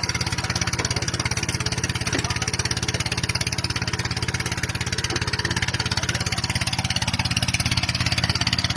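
Motorcycle engine running at a steady speed, with a rapid, even pulsing beat.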